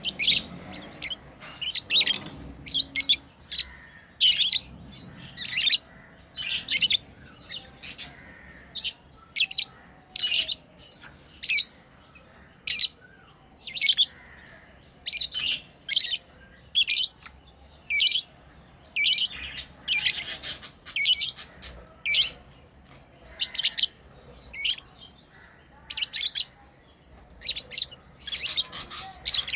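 Pet lovebirds chirping: short, sharp, high-pitched calls repeated about once or twice a second, without a break.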